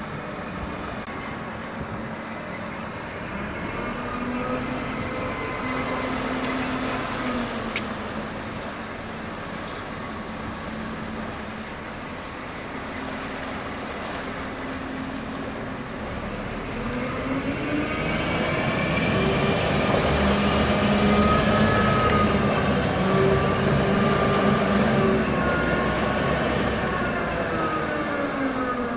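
Engine running steadily, then rising in pitch and loudness about 17 seconds in and falling again near the end.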